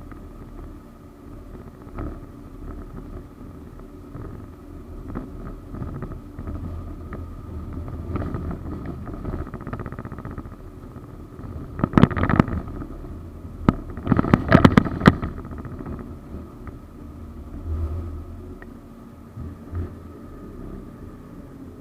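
A 71-931M Vityaz-M low-floor tram running, with a steady low rumble and hum and two bursts of loud, sharp clatter about halfway through, typical of wheels crossing rail joints or points.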